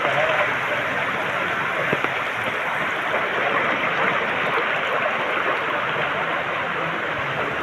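Heavy rain pouring steadily onto a flooded street, the drops splashing into standing floodwater.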